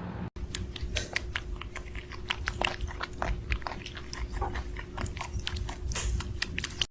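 A pet chewing and crunching something: many quick, irregular crunches, over a faint steady hum.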